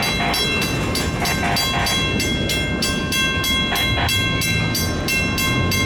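Freight train wheels rolling over rail joints, clacking in a rapid, even rhythm of about four a second, with thin steady squealing tones over a low rumble.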